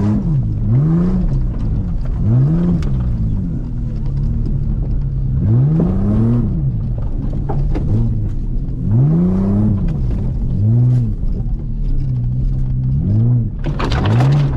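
1999 Toyota Camry engine heard from inside the cabin, revving up and dropping back again and again, about eight times, as the car is driven off-road over sand and dirt. Near the end there is a short, loud rush of noise.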